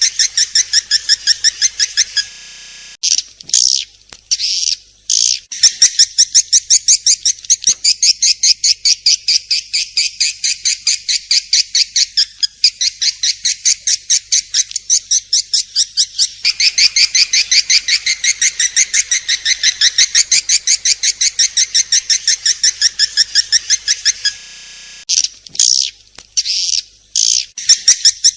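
Swiftlet calls: a fast, evenly repeated run of high chirps, several a second, breaking off briefly twice.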